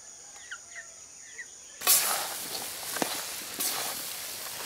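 A few short bird chirps over a steady high whine. About two seconds in, this gives way suddenly to pork and masala sizzling as they fry in a large metal pan, with a few knocks from the stirring.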